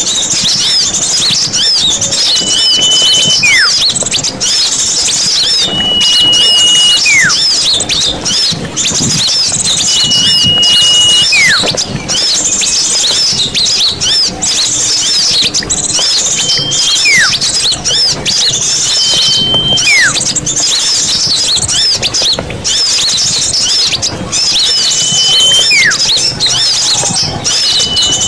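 Bird-lure recording of many small birds chattering and chirping densely at a high pitch. Every few seconds a louder call cuts through: a short held whistle, then a whistle sliding downward.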